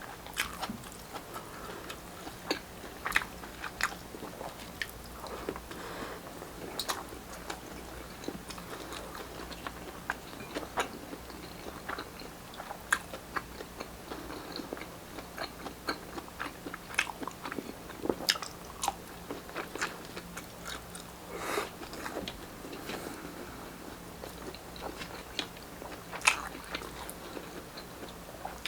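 Close-miked chewing and biting of grilled Filipino street-food barbecue, with irregular crunchy bites and wet mouth sounds.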